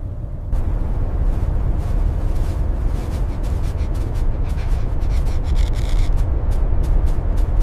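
Blizzard wind, a loud, steady low rumble, picking up about half a second in, with a run of quick crackling clicks through the second half.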